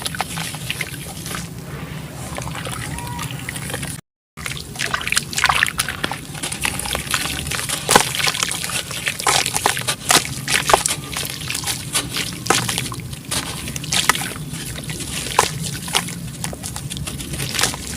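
Chunks of black sand-cement crumbling in water: sloshing and trickling with many sharp crackles. After a brief gap in the sound about four seconds in, the crackling grows denser and louder.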